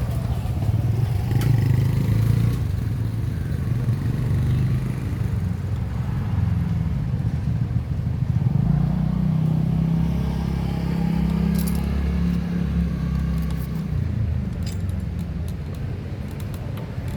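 Motor vehicle engines running, a steady low rumble that swells in the middle and eases off near the end, with light metallic clinks in the last few seconds.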